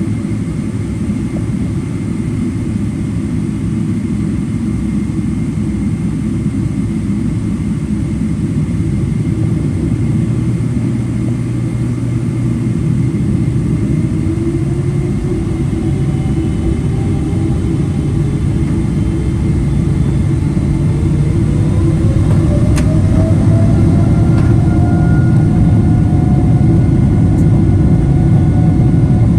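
Boeing 777-300 jet engines heard from inside the cabin: a steady low rumble, then from about halfway a whine that rises in pitch and settles as the engines spool up for takeoff, the noise growing louder. A single brief click comes about three-quarters of the way in.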